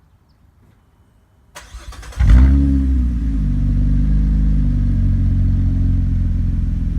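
Warm start of a 2015 Chevrolet Impala engine through a custom exhaust: muffler and underbody catalytic converter removed, stock resonator moved forward, Flowtech Purple Hornies glasspack, straight pipe out the back. The starter cranks briefly, the engine catches about two seconds in with a short flare of revs, then settles into a steady low idle.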